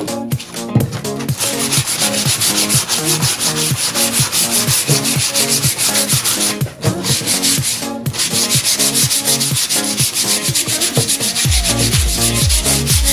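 Wood being sanded in a rapid, even rhythm, a steady rasping hiss. Electronic dance music plays underneath, with a deep bass line coming in near the end.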